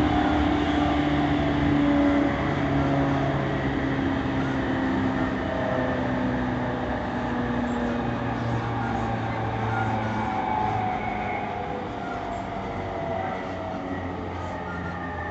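E231-1000 series electric train running, its traction-motor and inverter tones sliding slowly down in pitch over the rumble of the wheels as the train slows.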